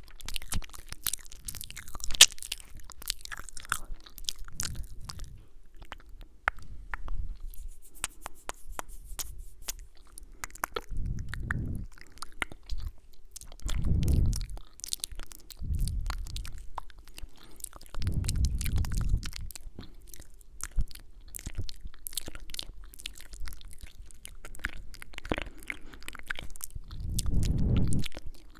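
Close-microphone ASMR mouth sounds: a dense run of wet clicks and kissing sounds, with a few low, muffled swells in between.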